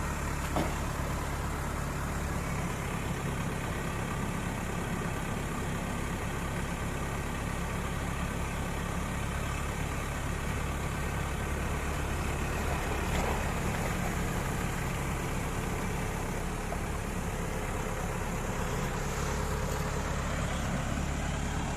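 Tow truck engine idling steadily.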